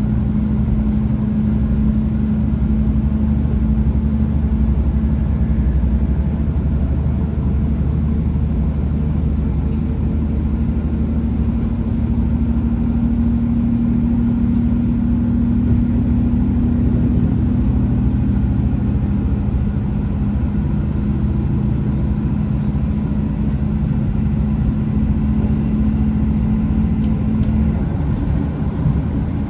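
Class 165 Turbo diesel multiple unit under way, its underfloor Perkins diesel engine droning steadily under power over the rumble of wheels on rail. The engine note cuts off near the end as power is shut off.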